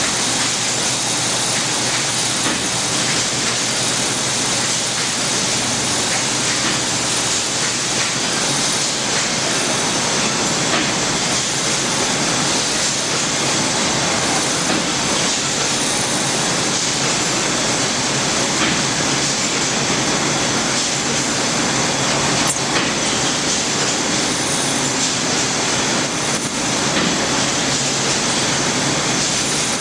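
Haas SL-20 CNC lathe running, a loud, steady rushing noise that holds even throughout.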